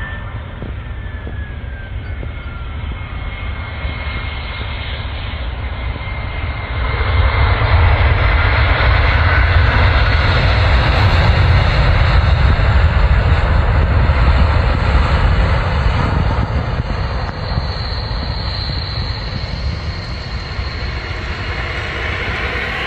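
Twin-engine Airbus A321 jet airliner landing: steady jet engine and airflow noise with a deep rumble, a faint falling whine in the first few seconds, and the noise getting louder about seven seconds in.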